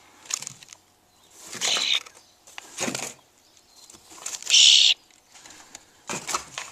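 A cornered young bird in a metal shop roof's peak making four short, scratchy, hissy bursts, spaced about a second or more apart. The loudest burst comes a little after the middle.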